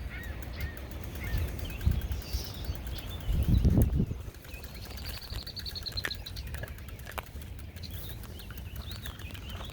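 Small birds chirping and calling, with one trill of quickly repeated high notes about five seconds in, over a steady low rumble that swells briefly a little before that.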